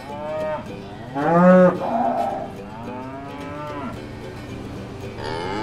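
Cows mooing: four long moos, the loudest about a second in, the last starting near the end.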